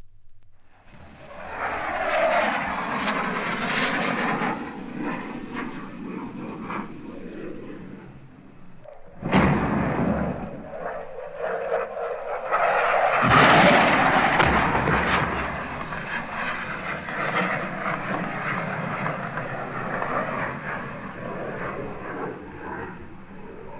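Military aircraft flying over, a noisy roar that swells up and eases off. A sudden loud burst comes about nine seconds in, and a second loud surge follows about thirteen seconds in, then slowly fades.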